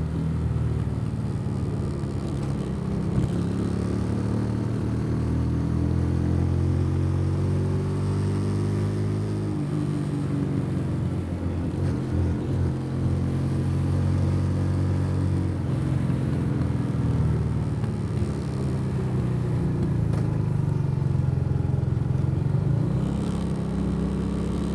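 Custom cruiser motorcycle engine running under way, its note rising and falling gently with the throttle, dipping about ten seconds in and climbing again near the end.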